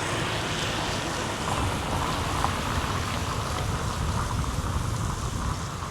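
Steady hiss of light rain, with a low rumble underneath.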